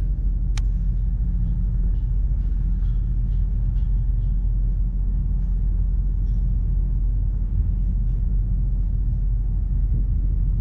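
Wind buffeting the microphone: a steady low rumble throughout, with one sharp click just over half a second in.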